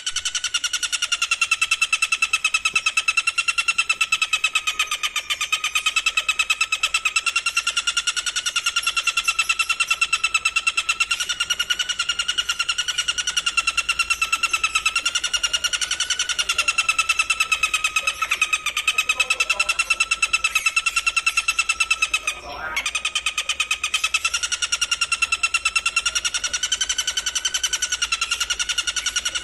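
A continuous, very fast-pulsed buzzing trill held at one steady pitch with a stack of overtones, from a looped masteran recording used to train songbirds. It breaks off briefly about 22 seconds in and then resumes.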